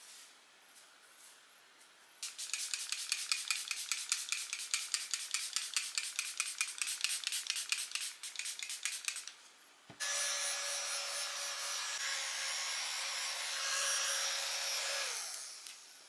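A makeup brush rubbed quickly and repeatedly in a powder compact, a fast run of short scratchy strokes. Then a steady hiss with a faint whine starts suddenly and fades out near the end.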